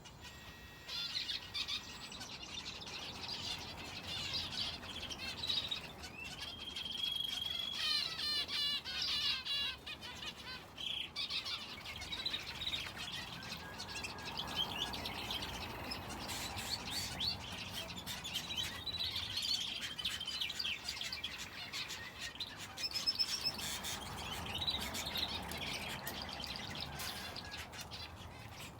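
Aviary finches and a canary chirping and singing: a busy run of short, high calls, with a held whistled note about six seconds in, followed by a fast trill.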